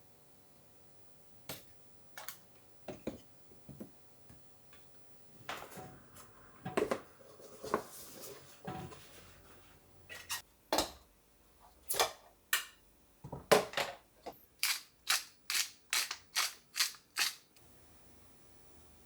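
Kitchen utensils and dishes clicking and knocking during meal preparation, ending with a run of about eight evenly spaced sharp knocks, about three a second.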